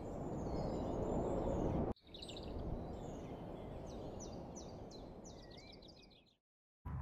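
Outdoor desert ambience: a steady low rushing noise with wild birds calling over it. From about two seconds in comes a quick run of short, falling chirps, followed by a brief rising-and-falling whistle; the sound cuts out just before the end.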